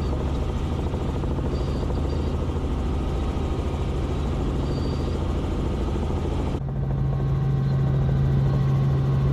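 Robinson R44 helicopter in flight: a steady drone of engine and rotors. About two-thirds of the way in, the sound changes abruptly, the low hum growing louder and the hiss dropping away.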